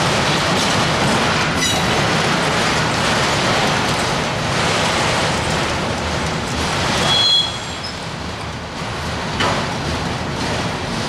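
Freight train of autorack cars rolling past, a steady rumble and rattle of wheels on the rails, with a brief high squeal about seven seconds in.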